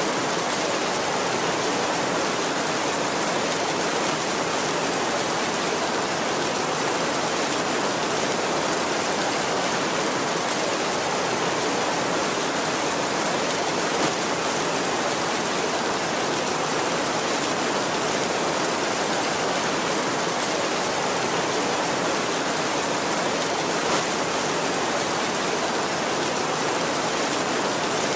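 Heavy rain falling steadily on a tin roof, an even hiss at a constant level, with two single louder drop ticks, one about halfway through and one near the end.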